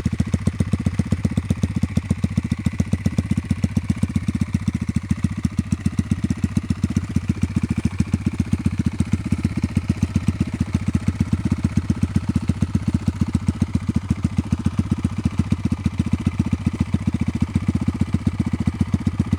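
Sachs MadAss's 125cc Honda-type single-cylinder four-stroke engine idling steadily, with an even beat of exhaust pulses.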